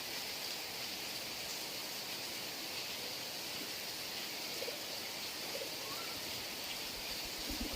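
Heavy rain falling in a steady hiss, with a few low thumps near the end.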